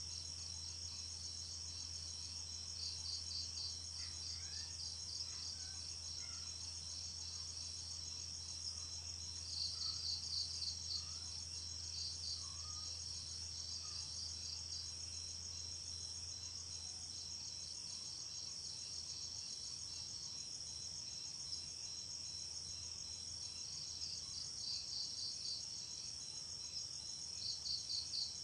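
Night chorus of crickets and other insects: a steady high-pitched trilling, with louder bursts of rapid pulsed chirps coming in now and then, over a low steady hum.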